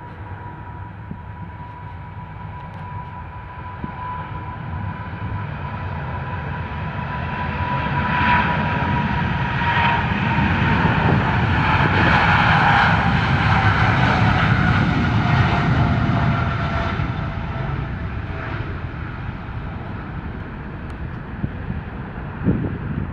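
Jet airliner passing by: engine noise builds to a peak about halfway through, then fades, while its engine whine slides down in pitch as the aircraft goes past.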